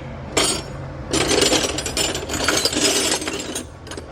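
Metal hand tools clattering and scraping against each other, as when rummaging through a toolbox for a wrench: one short clack, then about two and a half seconds of continuous rattling and rubbing.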